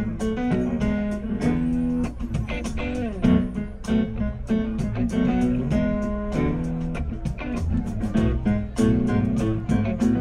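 Live rock band playing an instrumental passage: strummed and picked guitars over bass, with steady drum and cymbal hits.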